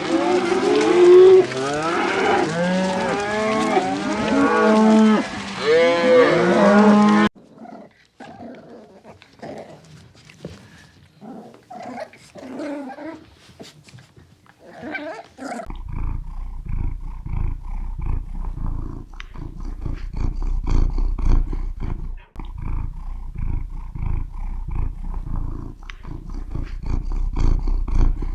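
Cattle mooing: many calls overlapping for the first several seconds, then fewer, scattered calls, then a long stretch of low, rhythmic pulsing sounds.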